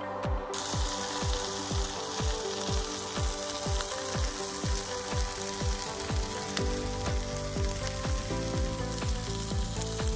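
Salmon frying on a Blackstone flat-top griddle with a steady sizzling hiss, over background music with a steady beat.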